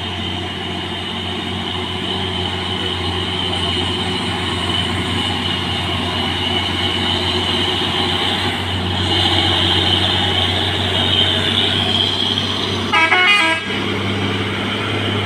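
Heavy diesel truck engine running with a steady low drone, and a short horn toot about thirteen seconds in.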